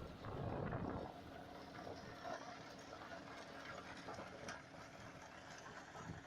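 John Deere 5045D tractor's diesel engine running with a rotavator churning soil, heard faintly, with a scattered clatter of clicks. It is louder for about the first second, then settles to a steady level.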